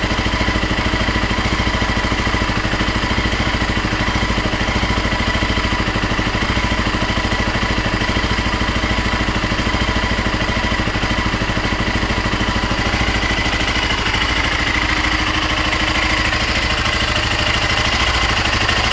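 BMW G650 Xchallenge's single-cylinder four-stroke engine running steadily at low speed while cold, an engine that its owner says will not idle when cold. Its loudness rises slightly near the end.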